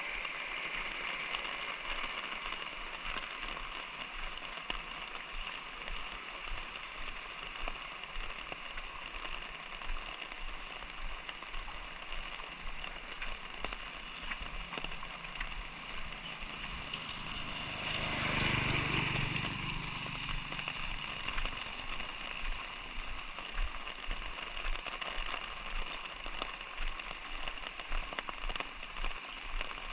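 Light rain falling steadily, pattering on surfaces. Past the middle, a vehicle passes close by, its sound swelling and fading over a few seconds.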